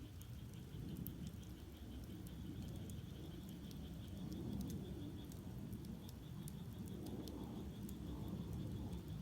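Firewood burning in an agungi fire-hole, with a steady low rumble of flames and scattered sharp crackles and pops. Behind it runs a steady pulsing high trill of frogs calling.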